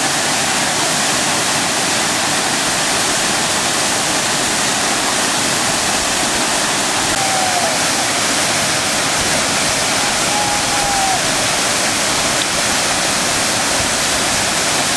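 Waterfall pouring: a steady, even hiss of falling water that does not change.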